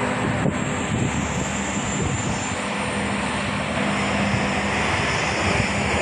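Steady rush of wind on the microphone and road noise while riding a bicycle, with a faint steady hum underneath.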